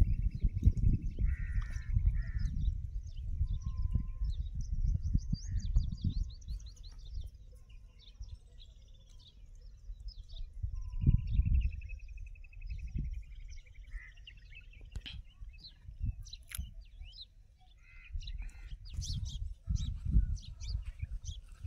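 Birds calling with fast, repeated trills, over a low rumbling noise that is heaviest in the first six seconds and swells again near the end.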